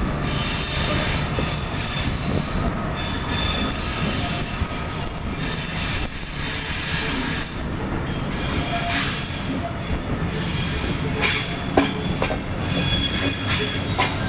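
A train running on the track: a steady rumble of wheels on rail with a thin, intermittent high squeal and sharp clicks over the rail joints, the loudest clicks a few seconds before the end.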